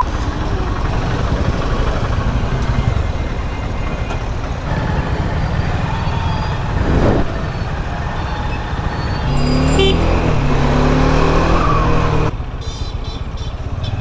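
Bajaj Dominar 400's single-cylinder engine running at low speed in slow, crowded traffic, amid the engines of surrounding motorbikes, scooters and vans.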